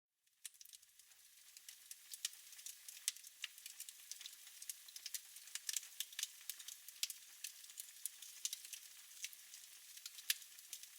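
Wood fire in a fireplace crackling, with irregular sharp pops and snaps over a soft hiss. It fades in over the first couple of seconds after a moment of silence.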